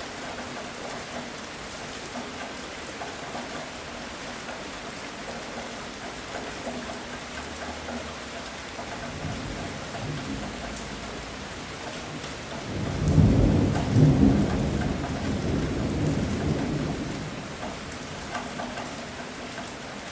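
Heavy rain falling steadily during a thunderstorm, with a loud roll of thunder about two-thirds of the way in that cracks twice in quick succession and then rumbles away over a few seconds.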